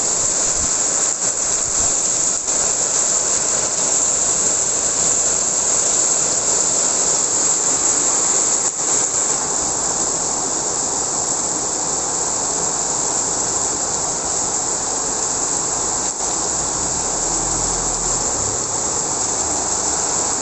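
Heavy rain pouring down in a strong wind: a steady, dense hiss, with a brief low rumble late on.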